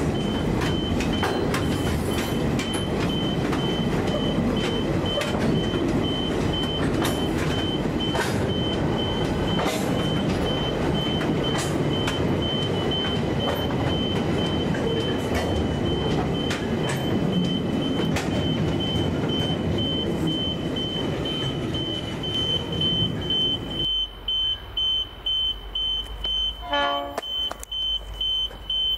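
Freight train hopper wagons rolling past at speed, a steady rumble of wheels on rail with irregular clacks over the joints. A high-pitched electronic beeping pulses evenly throughout. About 24 s in, the wagon rumble stops abruptly and the beeping goes on, with a short horn-like toot about three seconds later.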